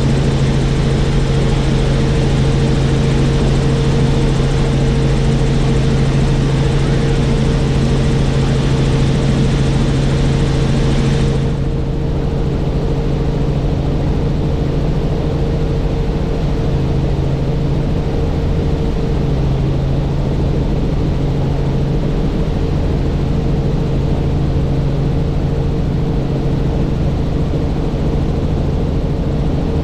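Helicopter in flight: a loud, steady rotor and engine drone with a constant low hum. About eleven seconds in, the hiss on top drops away suddenly, leaving a duller drone.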